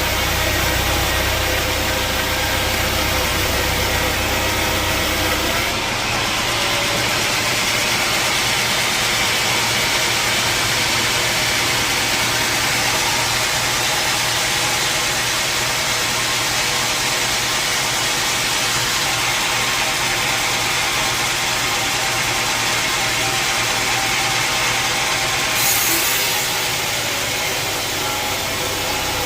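Sawmill saw machinery running steadily with a dense mechanical noise. About six seconds in, its deep low hum drops away.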